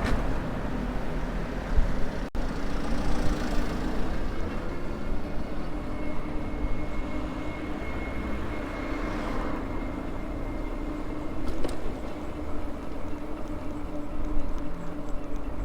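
Riding noise from a Maxtron Mule folding e-bike: steady rumble of wind and road, with a steady low hum and, in the middle, a faint thin whine.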